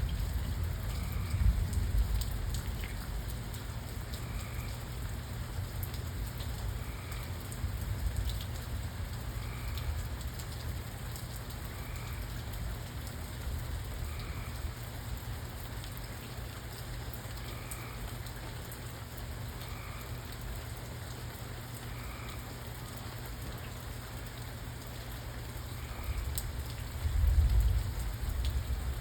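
Steady rain falling, with low rumbles of thunder at the start and again near the end. A faint short high call repeats about every two and a half seconds underneath.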